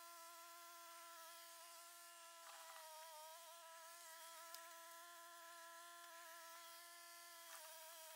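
Near silence with a faint, steady, unwavering high-pitched hum.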